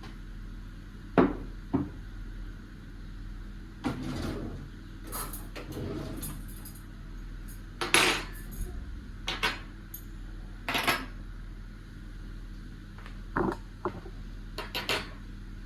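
Dishes and cutlery being handled: a series of separate clinks and knocks at irregular intervals over a low steady hum.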